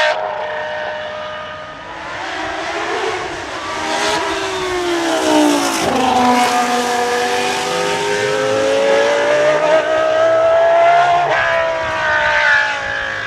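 Racing car engine running at high revs, its pitch sliding down and back up, with a sharp drop about six seconds in followed by a long steady climb and a fall near the end.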